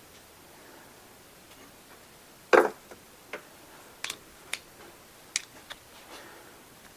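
Scattered light clicks and taps of a bolt and tools being handled while fitting a power steering pump in an engine bay: one louder knock about two and a half seconds in, then several smaller ticks.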